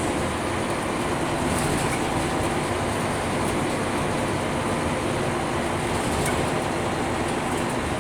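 Scania K310UB city bus under way, heard from inside the cabin: its rear-mounted diesel engine running steadily under road and tyre noise, with a few faint rattles.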